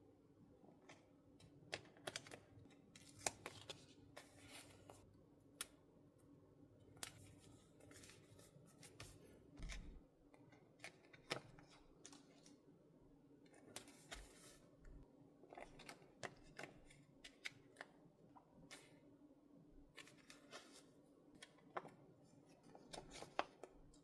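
Journal-making handling sounds: paper, pens and small stationery being picked up, set down and worked, heard as scattered light taps, clicks and short rustles at an irregular pace.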